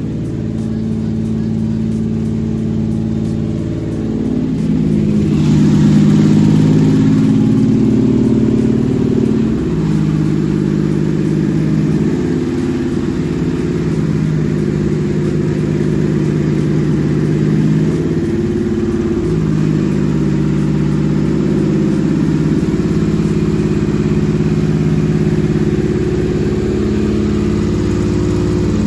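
Toyota 4GR V6 petrol engine running on a test stand, idling steadily. The revs shift a few times and the sound gets louder about five seconds in.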